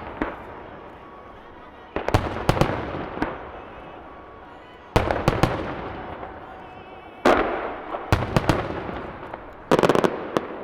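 Aerial firework shells bursting in volleys of several sharp bangs, five volleys a second or two apart. Heard from a few hundred metres away, each volley echoes and fades slowly.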